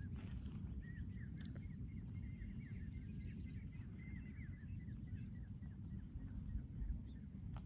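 Faint outdoor ambience: small birds chirping over and over in the distance above a low rumble, with a thin steady high-pitched tone throughout.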